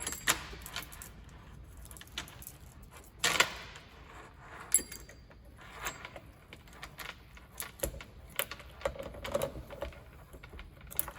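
Irregular metal clicks and clinks from a chainsaw bar and chain being handled, with a few sharper knocks about three and five seconds in.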